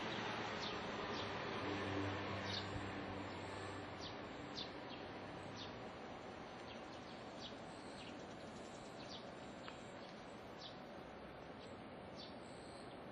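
Short high bird chirps, repeating every second or so over steady outdoor background noise. A low hum fades away in the first few seconds.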